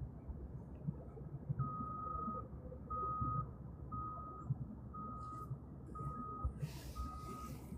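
Electronic beeper sounding a single steady tone, about half a second long and repeated about once a second, starting a second or two in, over a low background rumble.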